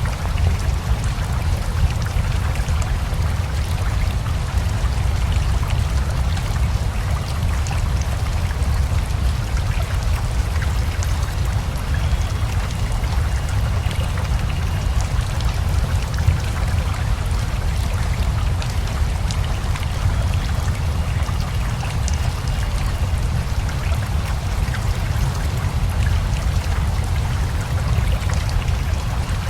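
Steady rainfall together with a rushing river: a dense, even water noise with a deep low rumble and a fine patter of drops.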